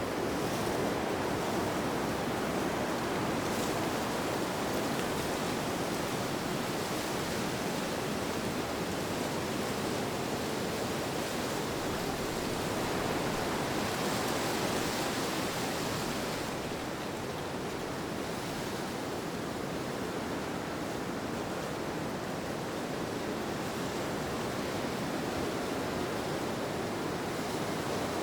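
A steady rushing wind, swelling a little about halfway through and easing slightly after.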